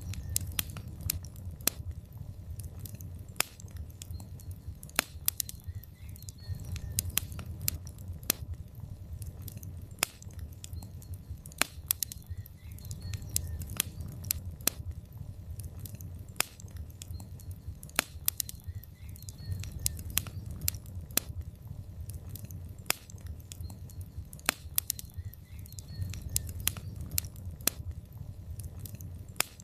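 Wood logs burning in a fireplace, crackling with sharp irregular pops over a low rumble of flames that swells and fades every few seconds.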